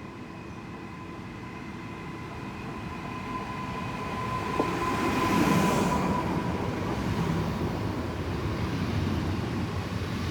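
Two coupled Newag Impuls (45WE) electric multiple units running past on the tracks. They grow louder to a peak about five to six seconds in, with a steady whine throughout and a single sharp click just before the peak.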